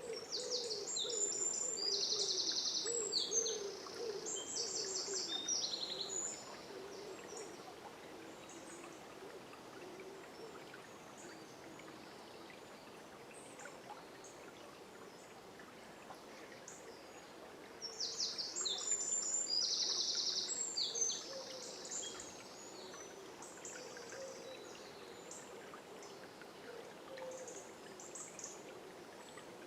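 A songbird sings two bouts of high, fast trilled song, the first in the opening six seconds and the second about eighteen seconds in, over the steady rush of a river.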